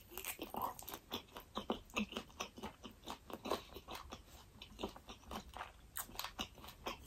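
Close-miked chewing: a person eating with the mouth closed, a quick run of small wet crunches and mouth clicks, several a second.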